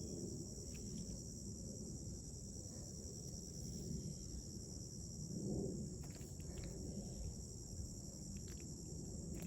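Steady high-pitched insect chorus, with a low rumble and a few faint clicks beneath it.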